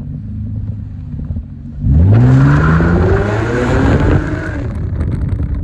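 Straight-piped Chevrolet Impala engine idling with a loud rumble, then revved hard about two seconds in, the pitch climbing and holding for a couple of seconds before falling back to a lower running note.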